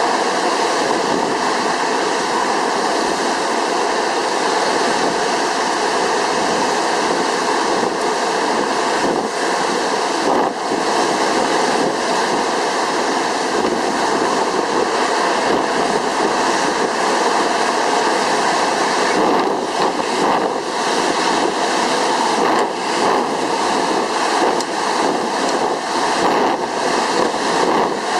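Typhoon wind (Typhoon Sanba) blowing hard and buffeting the microphone: a loud, dense rushing noise that holds steady, with short dips between gusts in the second half.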